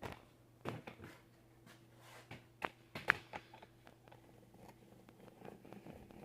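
Scattered light clicks and knocks of handling, with the sharpest click about three seconds in, over a faint steady hum.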